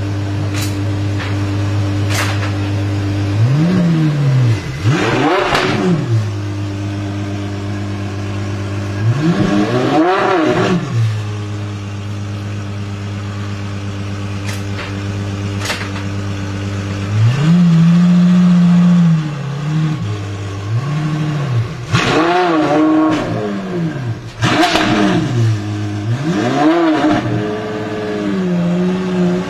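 Apollo Intensa Emozione's naturally aspirated V12 idling and being revved repeatedly, with about seven quick blips that rise and fall in pitch. One rev is held high for about two seconds midway.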